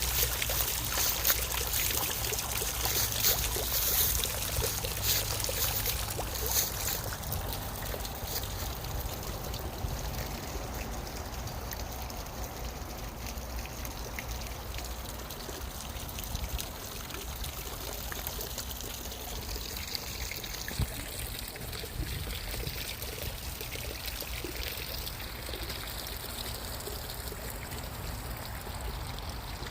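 Running water in a garden pond: a steady trickling, splashing flow, brighter and a little louder for the first several seconds, then settling to a softer, even trickle.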